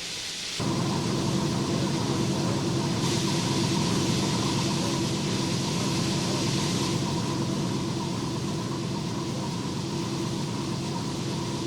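Locomotive standing idle: a steady low hum made of several constant tones under a hiss, which grows louder between about three and seven seconds in.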